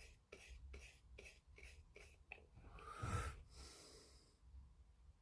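Faint, regular strokes of a wide paintbrush on a plastic model kit, about three a second, stopping a little past two seconds in. Then a soft bump and a breath through the nose.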